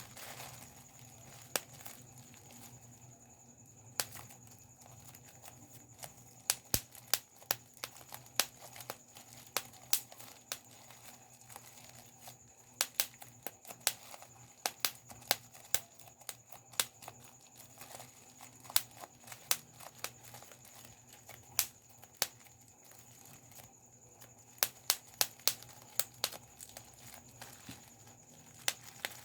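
Bubble wrap being popped by hand: sharp single pops at irregular intervals, some in quick runs of several, with faint plastic crinkling between them.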